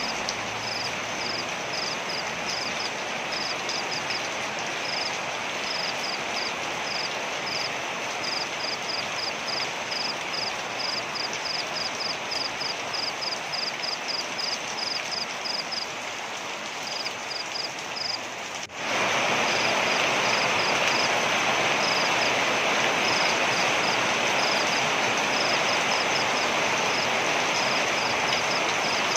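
Waterfall: steady rushing water, with short high chirps repeating in quick runs over it. About two-thirds of the way through there is an abrupt cut, after which the water is louder.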